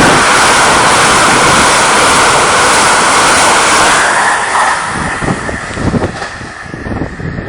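Amtrak Northeast Regional passenger train with an ACS-64 electric locomotive passing through the station at speed: a loud rush of air and wheels for about four seconds, then fading into rumbling wheel clatter as the cars go by.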